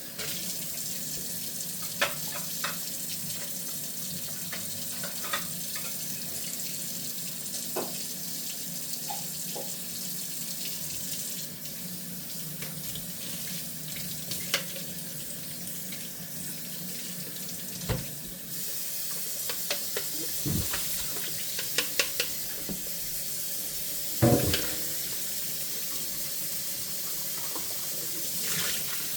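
Tap water running steadily into a kitchen sink during hand dishwashing, with scattered clinks and knocks of dishes being handled; the loudest knock comes near the end.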